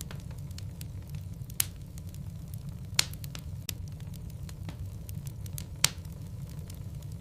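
Wood logs burning in a fireplace: a steady low rumble with frequent small crackles and three louder pops of the burning wood.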